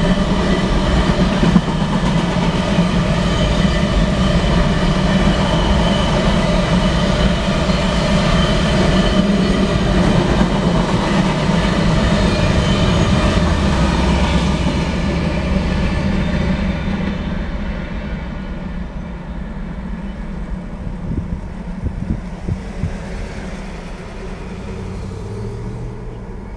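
Freight train of covered hopper cars rolling past a grade crossing, its wheels clacking over the rails, with its rear GE ES44DC diesel pushing locomotive going by at the tail. The sound is loud at first, then fades steadily from about halfway as the train moves away.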